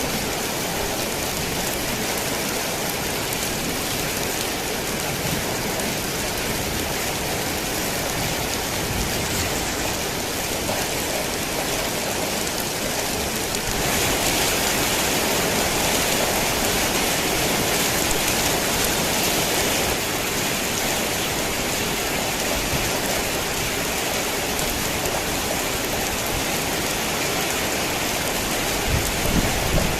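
Heavy rain drumming steadily on a tin roof, swelling louder for several seconds midway. A low rumble of thunder begins right near the end.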